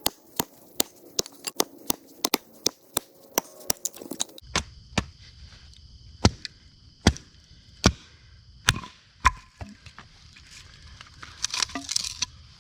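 Axe chopping dense firewood, which the chopper takes for oak: a run of sharp strikes, quick at first and then slower and heavier, with a splintering crackle near the end.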